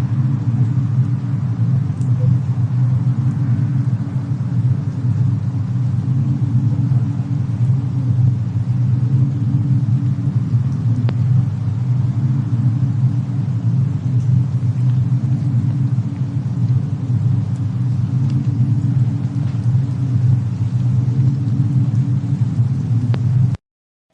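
Steady low rumble of a mixed snowstorm-and-fireplace ambience, with a few faint fire crackles over it. It cuts out abruptly just before the end.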